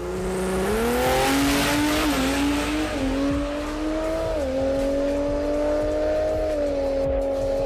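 Drag car engine at full throttle, its pitch climbing and then dipping several times as it shifts up through the gears, with a hiss early on.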